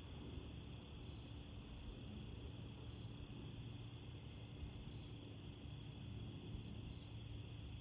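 Crickets chirping faintly and steadily, over a low steady rumble.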